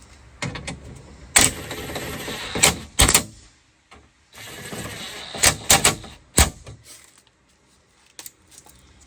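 A series of sharp clicks and knocks with two stretches of rustling noise in between, from handling things at a car door; it goes quieter in the last couple of seconds.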